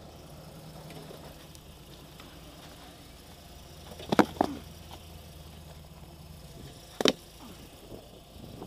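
Suzuki Sidekick rock crawler's engine running at low revs, a steady low hum. Sharp knocks stand out above it: two close together about four seconds in and one about seven seconds in.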